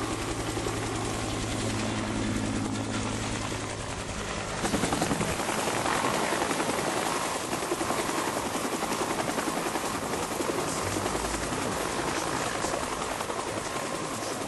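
Steady engine noise: a constant hum for the first four seconds or so, then a louder, even rushing noise from about five seconds in that holds steady.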